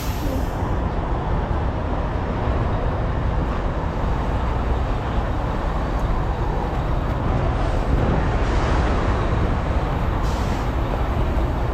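Steady low rumble of semi-truck diesel engines running around a crowded parking lot, with no single event standing out.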